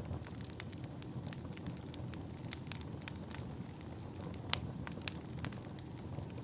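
Wood fire burning in a fireplace: a steady low rumble of flames with irregular sharp crackles and pops from the burning wood, one pop louder than the rest about four and a half seconds in.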